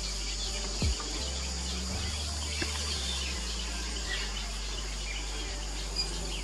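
Faint chirping and twittering of small birds over a steady high insect-like hiss and a low rumble, with one brief low thump about a second in.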